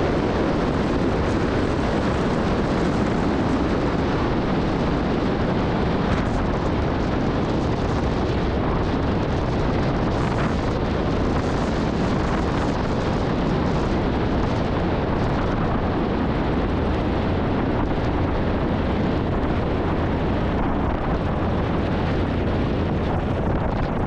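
Small propeller airplane in flight: the engine and the rush of air on the airframe make a steady, unbroken drone.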